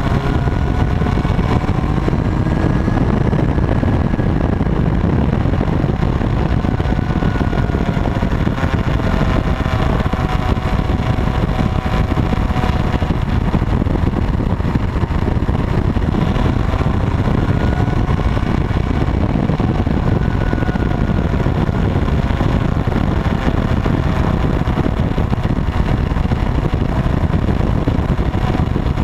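Motorcycle engine running on the move, its pitch drifting gently up and down, under a loud steady low rumble.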